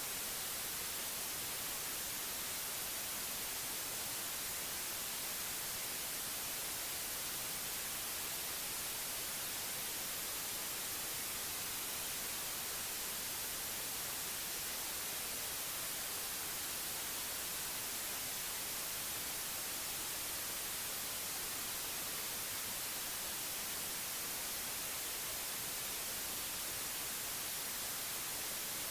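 Synthetic white noise: a steady, unchanging hiss, brightest in the high frequencies, played as a sleep aid.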